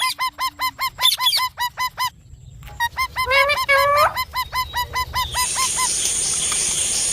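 Indian ringneck parrot calling: a rapid run of repeated, honking calls, several a second, broken by a short pause and a few longer gliding calls. About five seconds in, a steady hiss with a high thin tone takes over.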